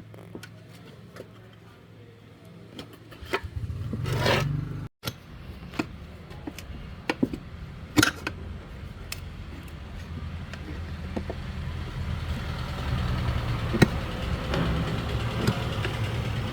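A engine running with a low, steady rumble. It surges about four seconds in, then after a brief break runs on and grows louder, with scattered clicks and taps over it.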